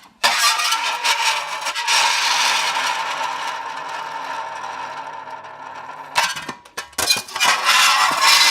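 A piece of metal pressed onto dry ice, screeching and squealing as the ice sublimates against it and sets the metal vibrating. A long harsh stretch stops about six seconds in; a few sharp clicks follow, and a second screech starts about a second later.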